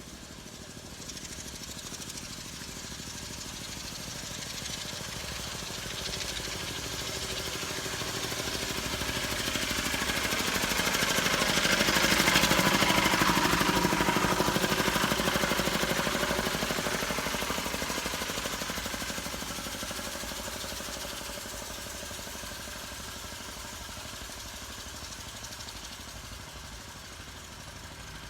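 An engine's steady noise grows louder to a peak about halfway through, then slowly fades away.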